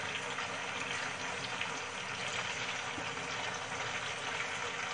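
Boiled chicken pieces frying in hot oil with whole spices in a kadai: a steady sizzling hiss with faint crackles.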